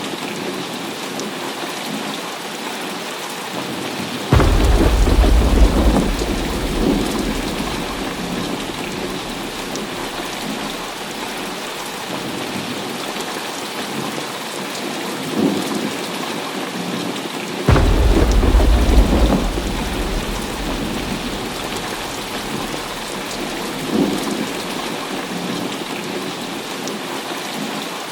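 Heavy rain falling steadily. Two sudden thunderclaps, about four seconds in and again near eighteen seconds, each rumble on for a few seconds, with fainter rolls of thunder between them.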